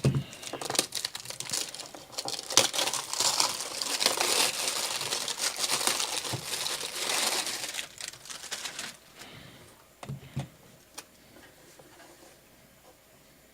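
Packaging of a Funko mystery box being torn open and crinkled in the hands, with a few knocks of handling about ten seconds in before it dies down.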